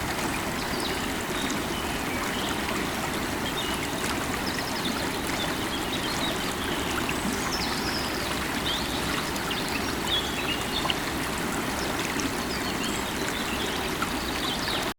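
A river of running water flowing steadily, with scattered short bird chirps over it.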